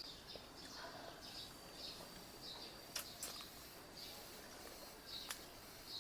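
Birds chirping faintly, short high chirps repeating about twice a second, with a few sharp clicks around the middle and near the end.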